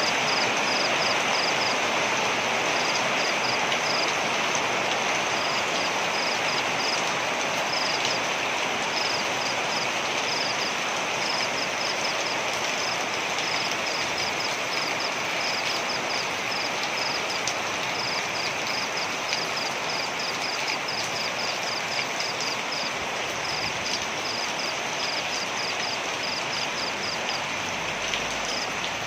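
Waterfall rushing steadily, with a high, rapidly pulsed chirping repeating in short runs over it.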